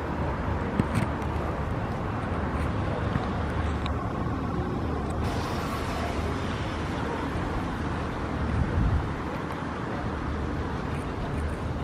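Steady city traffic noise with a low engine hum underneath and a few light knocks.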